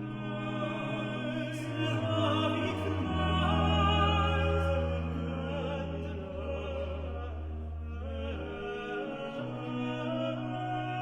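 Baroque vocal duet: countertenor and tenor singing over long held bass notes of the continuo.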